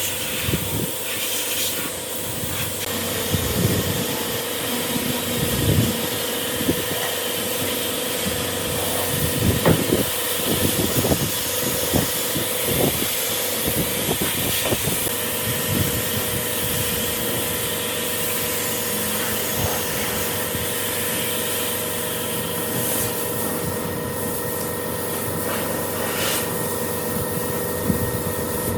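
A power tool's motor running with a steady whine and hiss, working wood, with scattered knocks and scrapes through the first half.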